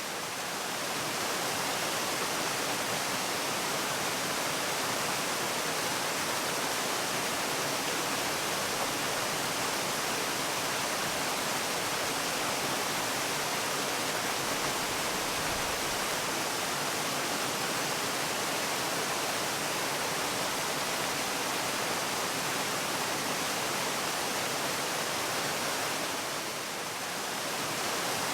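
Waterfall: falling water in a steady, even rush, dipping slightly in level for a moment near the end.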